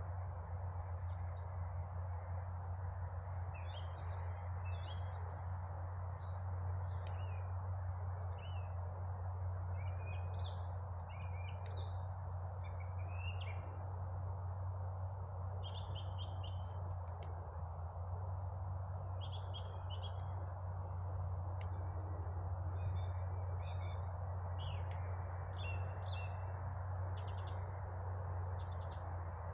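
Several small birds singing and chirping in short calls and trills throughout, over a steady low hum and an even background hiss.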